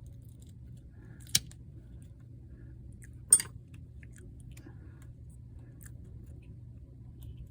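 Two sharp metallic clicks, about two seconds apart, the second louder, from small hand tools handled during an Apple Watch battery replacement, over a steady low hum.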